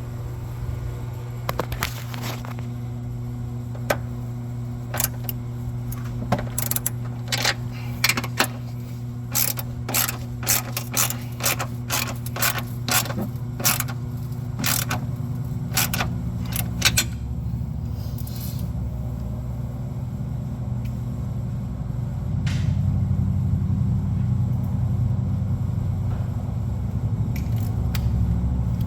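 Hand ratchet wrench clicking in short runs as mount bolts are snugged down, over a steady low hum that grows louder after the clicking stops.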